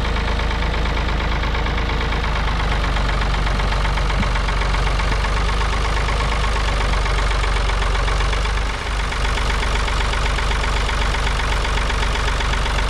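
Tractor engine running steadily, with a brief dip in level about nine seconds in.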